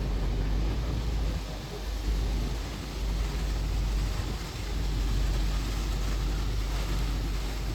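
Steady low rumble of a double-decker tour bus riding through city traffic in the rain, with an even hiss over it.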